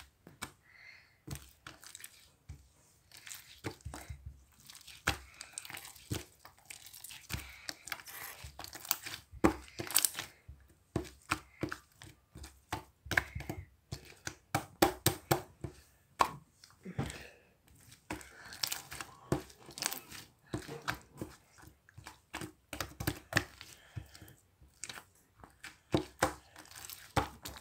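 Slime being squished and stretched by hand, giving irregular sticky pops, clicks and crackles in quick clusters with brief pauses.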